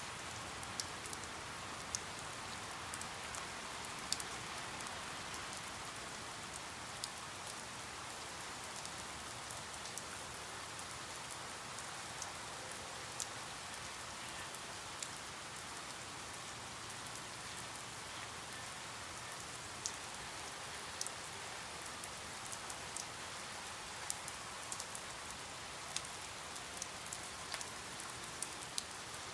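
Steady rain falling, an even hiss with scattered sharp drips and drop ticks standing out from it.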